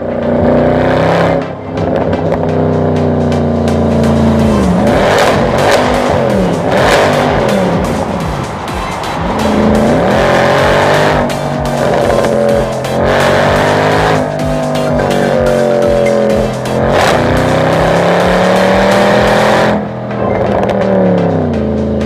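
Mercedes-AMG C63 (W204) M156 naturally aspirated V8 revving hard, its pitch climbing and dropping again and again as it accelerates, with brief dips in loudness between pulls.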